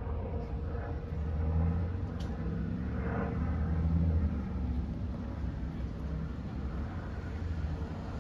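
Car cabin noise while driving: a steady low rumble of engine and tyres on the road, swelling a little a couple of seconds in.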